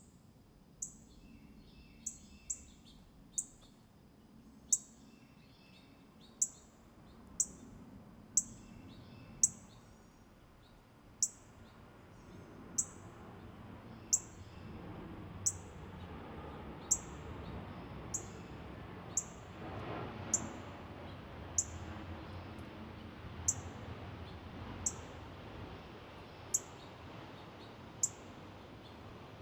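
A songbird repeating a sharp, very high chip note that sweeps downward, about one every one to one and a half seconds. In the first ten seconds a few softer, lower notes mix in.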